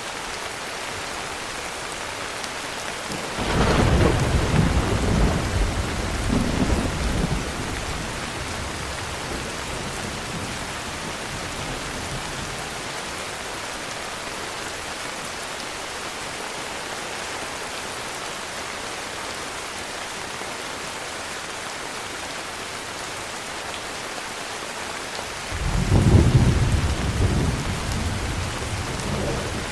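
Heavy rain falling steadily, with thunder rumbling twice: a low roll about three seconds in that fades over several seconds, and a louder one near the end.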